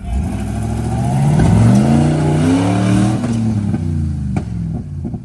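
Off-road rig's engine revving up for about two and a half seconds, then easing back down, with a single sharp knock near the end.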